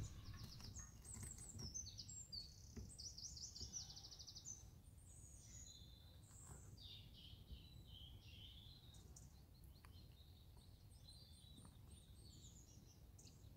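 Faint birdsong: small birds chirping and trilling, busiest in the first few seconds and sparser after, over a low steady background rumble.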